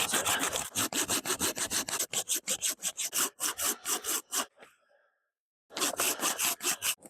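Hand saw cutting through a dry log with fast back-and-forth strokes, about four or five a second. The sawing stops for about a second and then starts again near the end.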